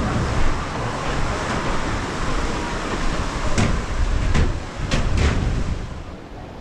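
A rider going down a water slide: a steady rush of water and sliding with a low rumble, broken by four sharp knocks in the second half, then dropping quieter near the end.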